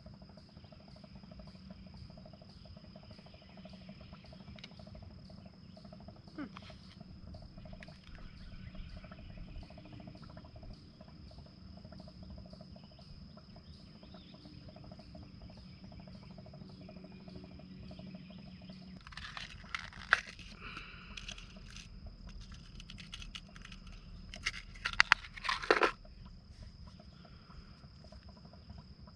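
Insects trilling in one steady, unbroken high note. A few sharp knocks and rustles come about two-thirds of the way through and again a little later.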